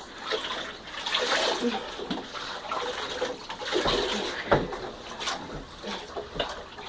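Bathwater splashing and sloshing in a tub as a dog is rinsed of soap, with irregular splashes and knocks as it moves about.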